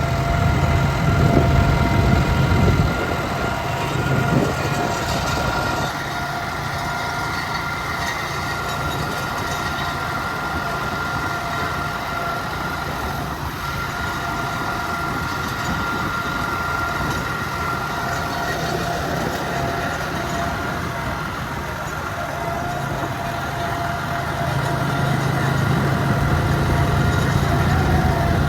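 Ford 4000 tractor's diesel engine running steadily, with a steady whine above the engine note; the low engine sound is heavier in the first few seconds and again near the end.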